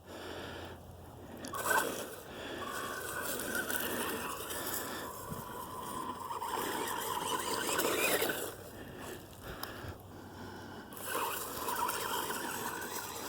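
Hosim S911 RC truck's electric motor and gears whining as it drives over grass, the whine rising and falling in pitch with the throttle in several spurts.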